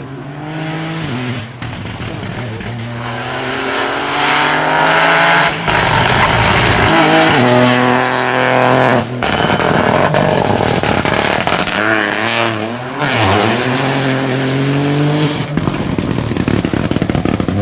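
Rally car engine revving hard as the car accelerates, the pitch climbing and then cutting sharply at each gear change, about four times.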